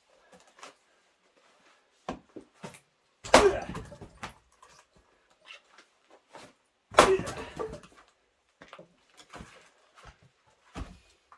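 Axe splitting firewood rounds: two heavy blows about three and a half seconds apart, each a sharp crack with a short ringing tail, and lighter knocks of wood pieces in between.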